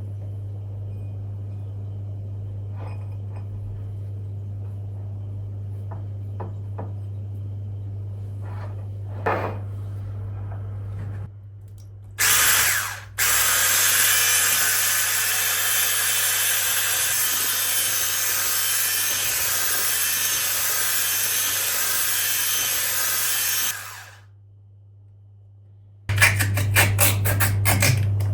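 Small electric kitchen appliance motor running loudly for about ten seconds after a brief first pulse, then switching off abruptly, with light clicks of kitchen handling before and after.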